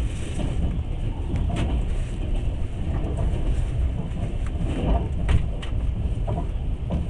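Passenger train running along the track, heard from inside the carriage: a steady low rumble with a few irregular clanks and clicks, the sharpest about five seconds in.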